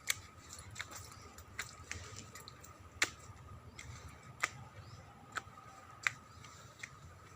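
Scattered sharp clicks, roughly one a second and irregularly spaced, over a faint steady high tone.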